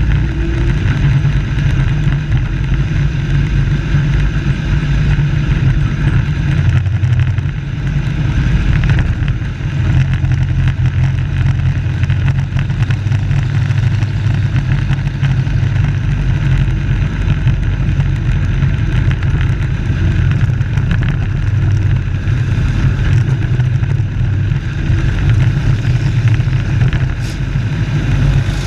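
Race truck engines running on a short oval track, a loud, steady engine drone with no break.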